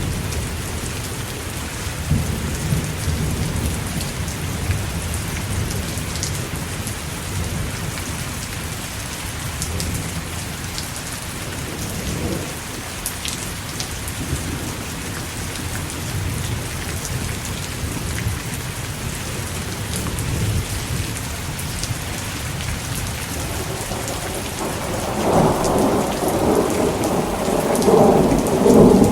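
Thunderstorm: steady heavy rain with rolling thunder rumbling low throughout, building into a louder peal of thunder over the last few seconds.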